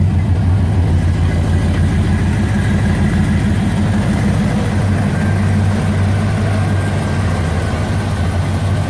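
Car engine idling steadily with a deep, even exhaust note.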